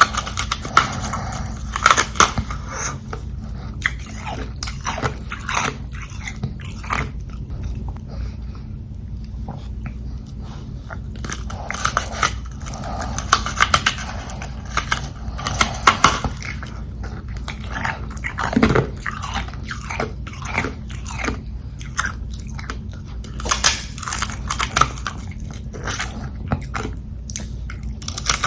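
Close-up biting and chewing of carbonated ice: hard crunches come in irregular clusters with short quieter pauses between them, over a steady low hum.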